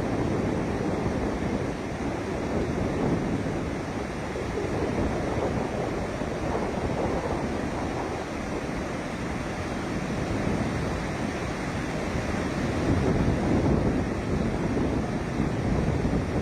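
Water rushing out of a dam's flood release: a steady roar of churning water that swells a little near the end.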